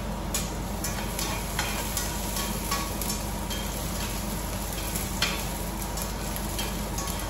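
Chopped garlic frying in hot oil in a pan, sizzling steadily, with scattered sharp taps and scrapes of a utensil stirring it.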